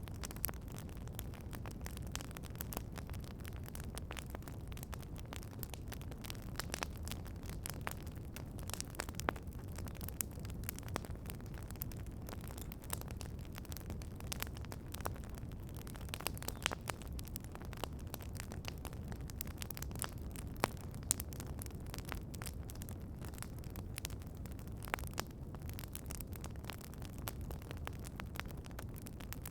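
Wood campfire crackling: frequent irregular pops and snaps, a few of them louder, over a steady low rumble.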